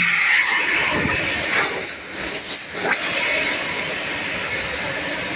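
Car wash equipment running with a steady hissing rush, with a few brief dips in level.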